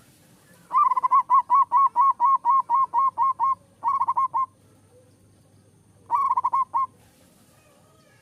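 Zebra dove (perkutut) song: a fast run of about fourteen short, evenly spaced cooing notes, then a brief burst of about five, and after a pause a final burst of about six.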